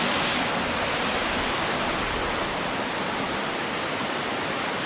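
Waterfall on a mountain stream, a steady full rush of falling water.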